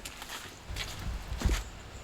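Footsteps on the ground: a few light, irregular steps, the loudest about one and a half seconds in, with a low rumble.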